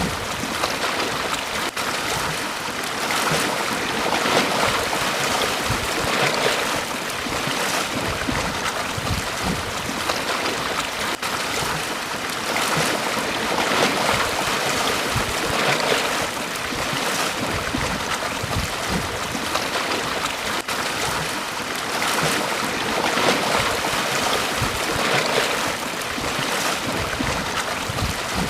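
Sea waves breaking and washing up a beach: a continuous rush of surf that swells every few seconds as each wave comes in.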